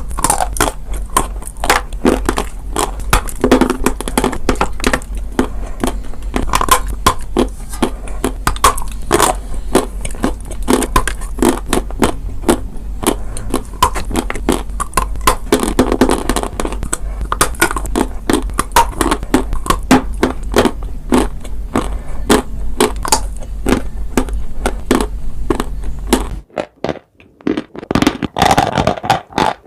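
Dry chalk and clay crunching close to the microphone as they are bitten and chewed: a dense, steady run of sharp crackles and crunches. It thins out and goes quieter near the end, when a low hum underneath stops.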